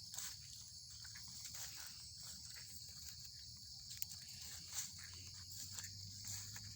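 Insects chirping steadily, a high, even drone, with a few faint rustles and clicks.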